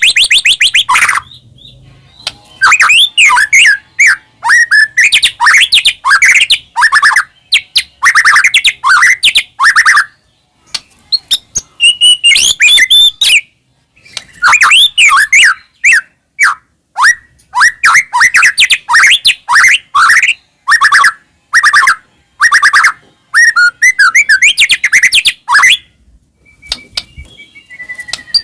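White-rumped shama (murai batu) singing loudly in fast, varied phrases of rapid chattering and whistled notes, in bursts broken by short pauses.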